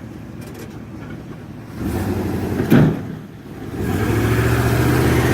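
Pickup truck engine running with a low rumble, a single loud thump a little under three seconds in, then the engine settling into a louder, steady run for the last second or so.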